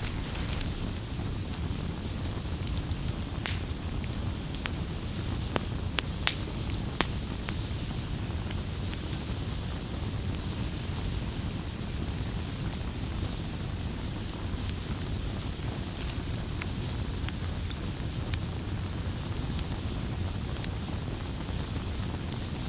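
Wood campfire crackling: irregular sharp pops and snaps, a few louder than the rest, over a steady low noise of the burning fire.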